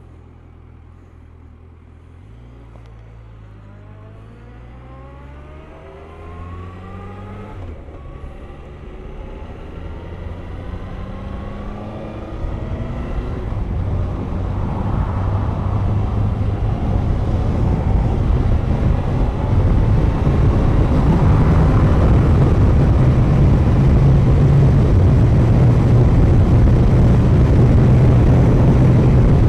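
Suzuki GSX1250FA inline-four engine pulling away and accelerating, its note rising, dropping once at a gear change about eight seconds in, and rising again. From about a third of the way in, wind noise on the microphone builds with speed and becomes the loudest sound.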